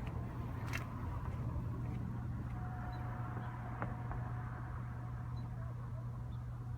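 2015 Camaro Z/28's 7.0-litre LS7 V8 idling steadily through its exhaust on a cold start.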